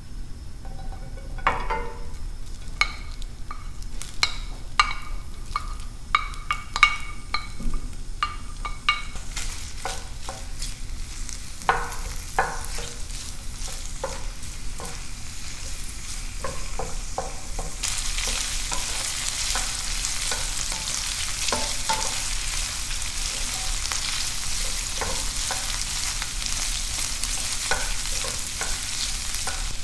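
Cooking sounds: a utensil clinking against cookware with short ringing notes, then food sizzling in a hot pan while it is stirred. The sizzle grows louder about halfway through, with scattered scraping clicks from the stirring.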